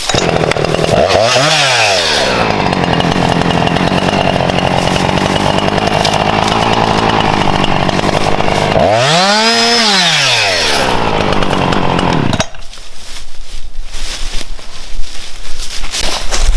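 Husqvarna two-stroke chainsaw running at high revs, its pitch rising and falling briefly about a second and a half in and again about ten seconds in. The engine stops about twelve seconds in, leaving irregular rustling and knocks.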